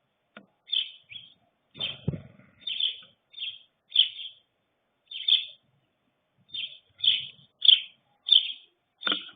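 Small birds chirping: about a dozen short, high chirps at irregular intervals, with a soft thump about two seconds in.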